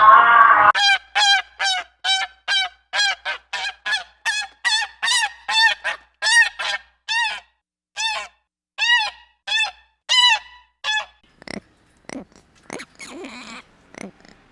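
An animal giving a rapid series of short, pitched calls, about three a second, which stop about 11 seconds in. A few soft knocks and some rustling follow near the end.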